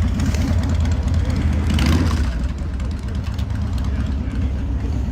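A vehicle engine running close by with a low, uneven rumble, and a short burst of noise about two seconds in.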